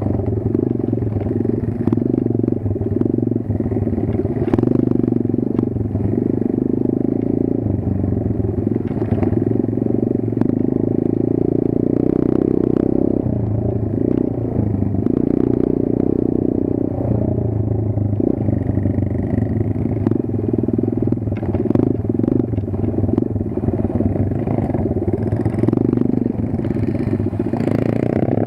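Kayo 140 pit bike's small single-cylinder four-stroke engine running continuously, its note shifting unevenly with the throttle. Occasional clattering knocks sound through it.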